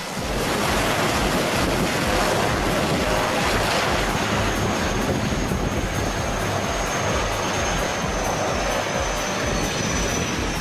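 Airplane engines running loud during a landing or takeoff pass: a dense roar with a thin high whine that comes in about four seconds in and drops slightly in pitch near the end.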